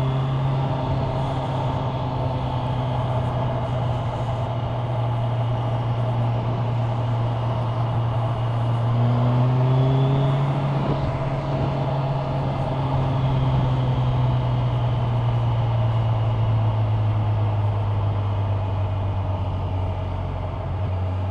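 Kawasaki Ninja 1000SX inline-four engine running steadily while riding, heard from a helmet-mounted camera. The engine note rises a little partway through and eases off near the end.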